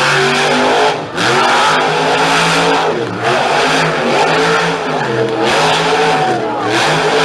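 Monster truck engine revving hard, its pitch rising and falling over and over, with brief drops as the throttle is lifted about one and three seconds in.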